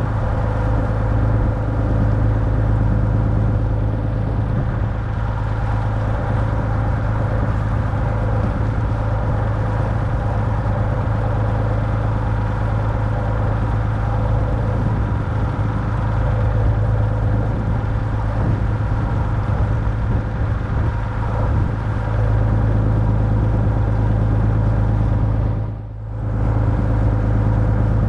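The barge's engine running steadily under way, a constant low hum with many overtones, with a brief drop in level near the end.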